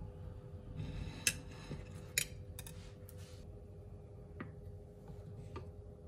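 A few sharp clicks and light taps of a knife and plate being handled on a wooden cutting board, with some soft rustling. A faint steady hum runs underneath.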